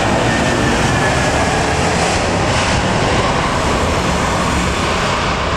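Jet airliner passing close by, a loud steady roar with a faint whine that slowly falls in pitch.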